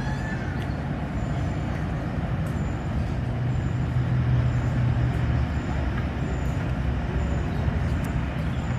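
A heavy engine running steadily with a low hum, slightly louder for a couple of seconds around the middle.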